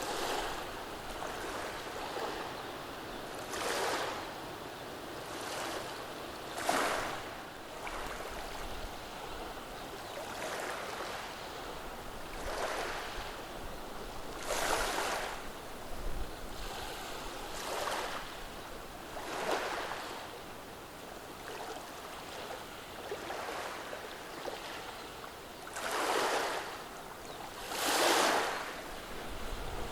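Gentle waves washing over a beach of rounded cobble stones: small waves break and draw back through the stones every two to three seconds, each a soft rush of hiss over a steady wash, the two strongest near the end.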